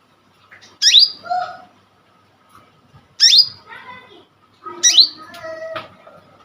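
Konin (kolibri ninja) sunbird singing: three bursts of sharp, quickly rising high notes, each followed by a few lower chattering notes, with short pauses between bursts.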